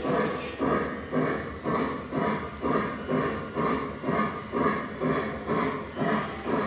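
O gauge model steam locomotive's onboard sound system chuffing at an even pace, about two chuffs a second.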